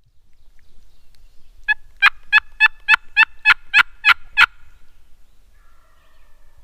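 Turkey calling: a run of about ten sharp, evenly spaced notes, roughly three to four a second, starting a little under two seconds in and stopping suddenly.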